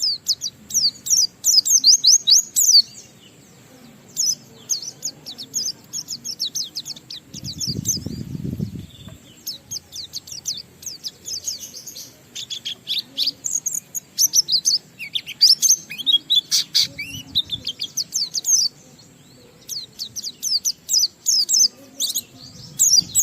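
A white-eye (pleci) singing a long, varied song of quick, high-pitched twittering phrases with short pauses between them. A brief low rumble sounds about a third of the way through.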